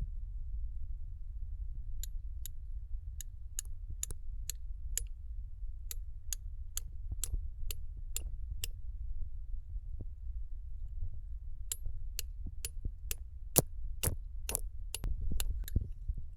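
Pieces of rock knocking together as quartz is separated from marl: a series of sharp clicks, about two a second, in two runs with a pause between, over a steady low rumble.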